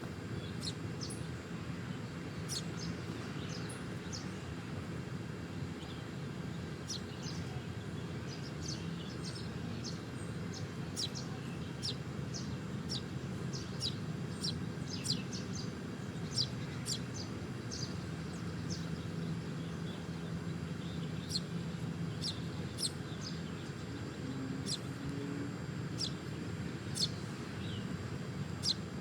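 Small birds chirping: many short, high chirps scattered irregularly, several every few seconds, over a steady low background rumble.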